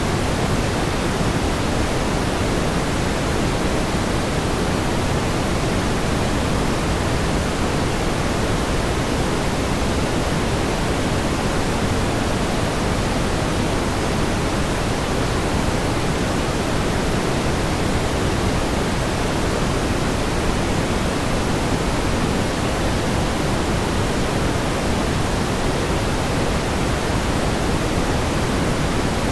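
Steady pink noise: an even, unchanging hiss, fuller in the low end and fading towards the top.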